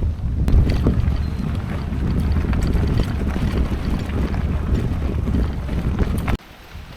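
Wind buffeting the microphone as a loud, gusting low rumble, with scattered light clicks over it; it drops away suddenly near the end.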